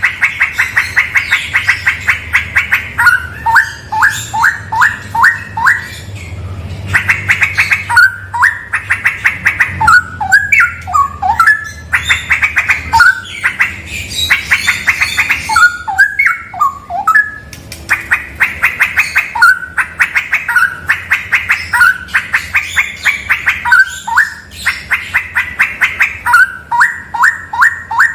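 Straw-headed bulbul (cucak rawa) singing: fast trains of repeated notes alternate with rich, slurred whistled phrases that bend up and down, with brief pauses between phrases.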